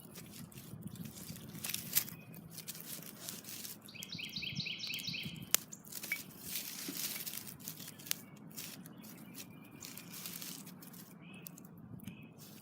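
A fire-heated stone in water in a bamboo trough, crackling and ticking irregularly as it begins to heat the water. A bird gives a quick run of chirps about four seconds in.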